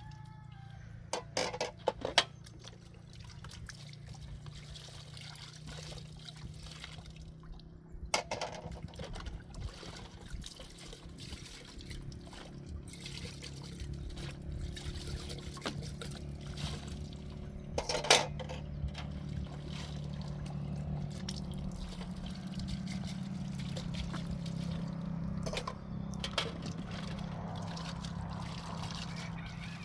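Water pouring and trickling, with a few sharp knocks and clinks now and then.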